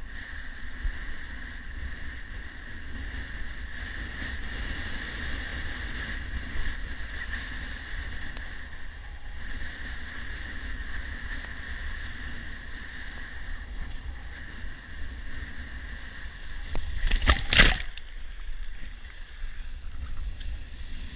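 Steady rushing of wind and water around the microphone, with one short loud burst about seventeen seconds in.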